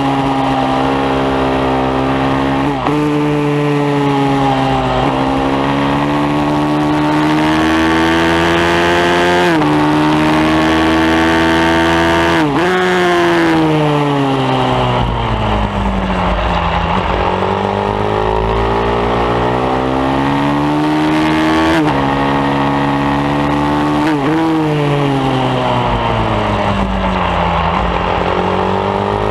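Bucci F15R pit bike's single-cylinder four-stroke engine being ridden hard on a circuit. The revs climb in each gear with sharp drops at the upshifts, then sink under braking for corners before pulling up again.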